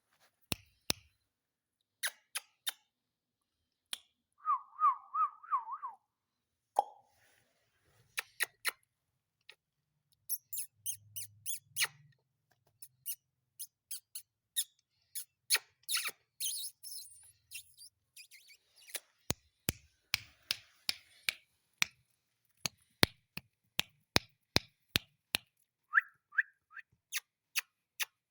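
Ringneck parrot giving a short warbling whistle about five seconds in and a brief chirp near the end, among many sharp clicks and taps.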